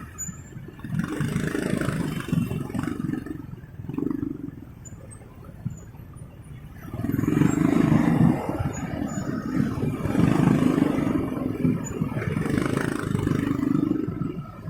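Motorcycle riding in city traffic: engine and road rumble rising and falling in several swells, loudest in the second half.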